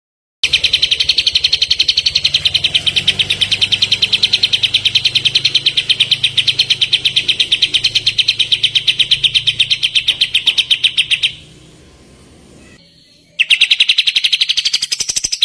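Kapas tembak singing a long, fast trill of evenly repeated notes, about eight a second, which stops about eleven seconds in and starts again near the end.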